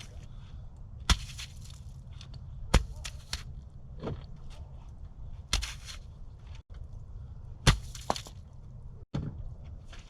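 Bricks and pieces of concrete being set down and stacked for a fire pit: several sharp knocks and scrapes, four of them loud, over a steady low background noise.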